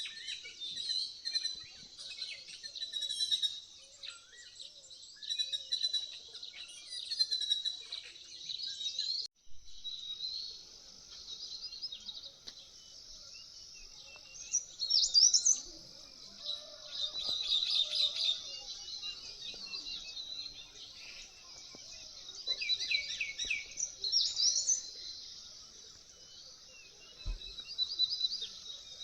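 A morning chorus of many songbirds singing at once: overlapping high chirps, trills and short whistled phrases, with a brief break about nine seconds in.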